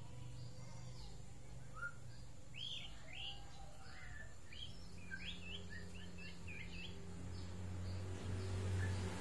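Faint bird chirps: a quick run of short twittering notes over a steady low hum, with a low rumble building near the end.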